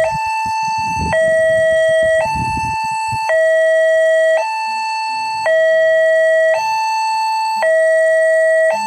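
Railway level-crossing warning alarm sounding its electronic two-tone signal, alternating steadily between a higher and a lower tone, each held about a second. A low rumble runs underneath during the first few seconds.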